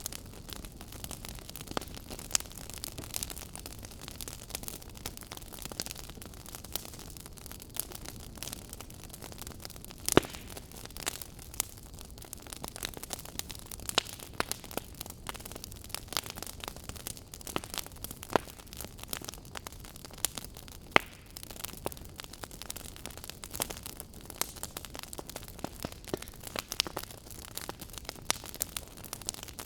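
Wood fire crackling in a fireplace: a steady low hiss with frequent irregular pops and snaps, and two louder pops about ten and twenty-one seconds in.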